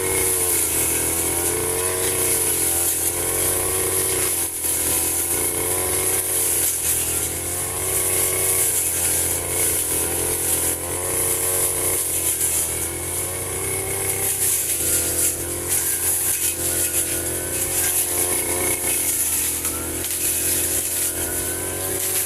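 Firman FGB 528 petrol brush cutter running at high speed while cutting grass, its engine pitch dipping and recovering every couple of seconds as it takes load from the swings, with a steady high hiss over it.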